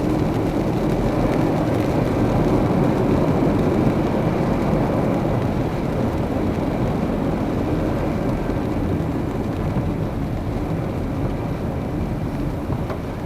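Car driving on a rain-soaked road in heavy rain: a steady rush of tyre, engine and rain noise that eases slightly near the end.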